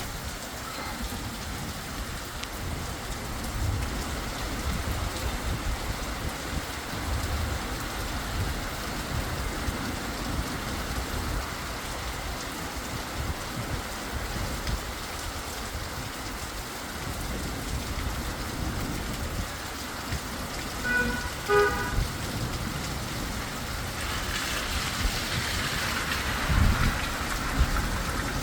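Heavy rain pouring steadily, growing louder and hissier near the end. Two short beeps, like a horn, cut through about 21 seconds in.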